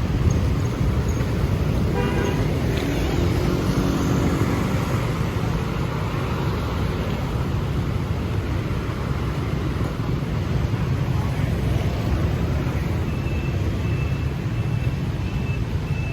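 Steady city street traffic, a constant rumble of passing vehicles, with a short horn toot about two seconds in.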